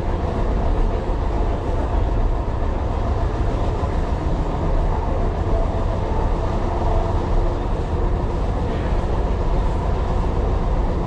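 A Tyne and Wear Metrocar running along the track, heard from on board: a steady, heavy rumble of wheels and running gear with a faint hum above it.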